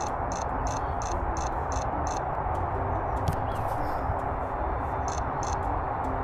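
A small bird repeating a short, high-pitched call, about three notes a second in a run of six, then two more near the end, over a steady background rush.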